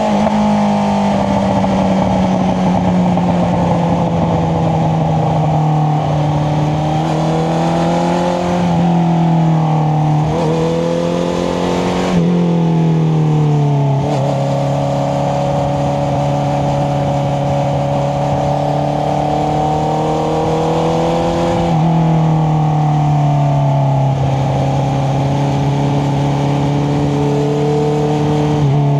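Honda CBR650R's inline-four engine running through an aftermarket Akrapovic exhaust, heard from on the bike while riding. Its note rises and falls with throttle, and drops in steps a few times as gears change. A steady rush of wind runs underneath.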